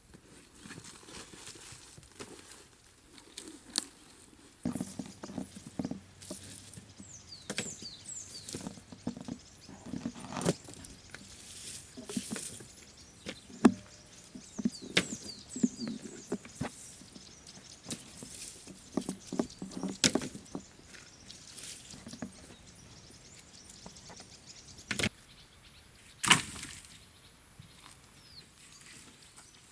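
Irregular knocks, clicks and rustling from hands handling things, the sharpest knocks about 14, 20, 25 and 26 seconds in, with a few short high chirps.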